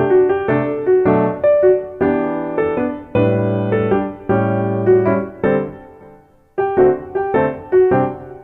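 Background music played on piano: struck notes and chords that ring and fade, with a brief pause about six seconds in before the notes resume.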